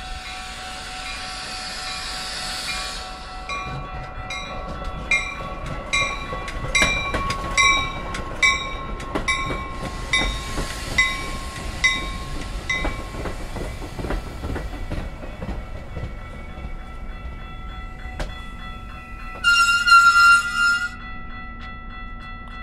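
Metra commuter train passing, its wheels clattering over rail joints in a long run of evenly spaced clicks, with one short horn blast near the end.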